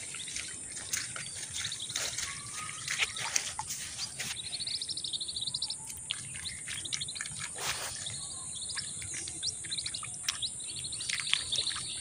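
Birds chirping: many short high calls scattered throughout, with a fast trilled run of notes about four seconds in, over a steady high-pitched whine.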